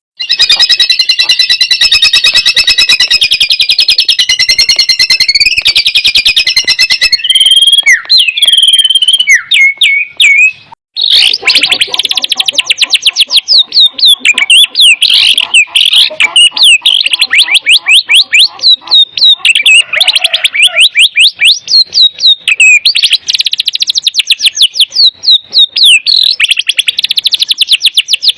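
White-rumped shama (murai batu) singing loudly: a fast, buzzy trill for about seven seconds, a few varied whistles, then a long, rapid run of quick sliding chirps and whistles.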